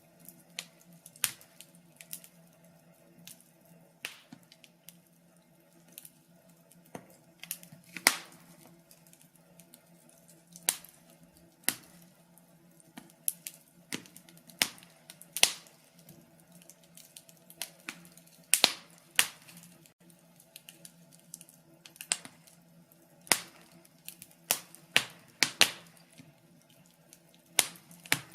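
Fire crackling: sharp, irregular pops and snaps, roughly one every second or two, a few much louder than the rest, over a faint steady low hum.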